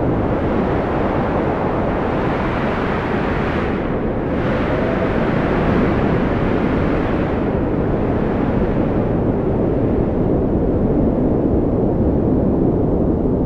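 Strong wind blowing in a steady, heavy rush, swelling brighter for a moment or two, with a faint whistling tone rising and falling about five seconds in.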